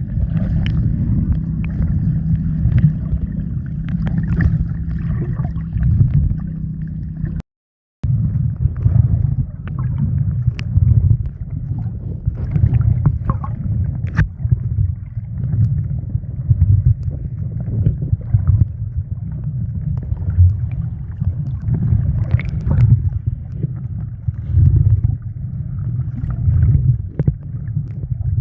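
A boat under way: a steady, loud low engine drone with wind buffeting the microphone and water sloshing, plus scattered small knocks. The sound cuts out completely for about half a second around seven and a half seconds in, then carries on with a somewhat different rumble.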